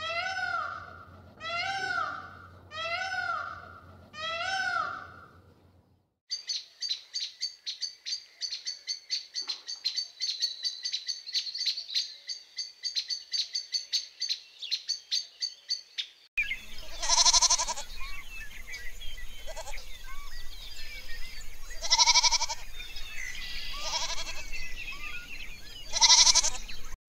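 A peacock calling four times, about a second and a half apart; then a hummingbird's rapid, high chirping; then goats bleating four times over faint twittering birds.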